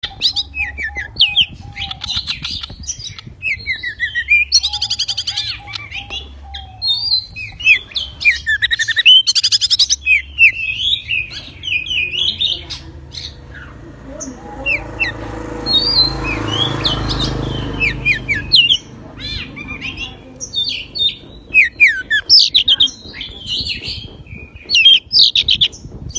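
Pied bushchat singing loudly and almost nonstop, a jumble of quick chirps and sweeping whistled notes broken by short rattling trills. A rumbling noise rises under the song for a few seconds in the middle.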